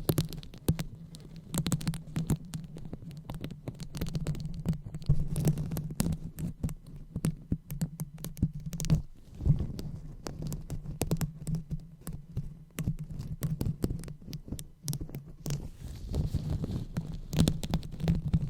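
Hands rubbing and massaging a microphone for ASMR, a dense, irregular run of soft crackles and taps over a low rumble.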